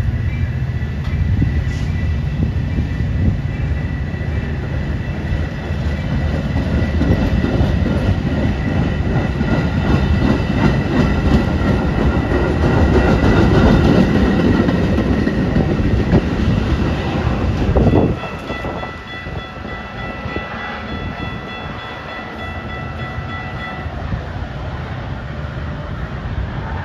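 Metra bilevel commuter cars rolling past at close range as the train pulls out, a heavy rumble and clatter of wheels on rail that builds to about 14 s in. It drops off abruptly about 18 s in as the last car clears. Steady high-pitched tones ring through much of it.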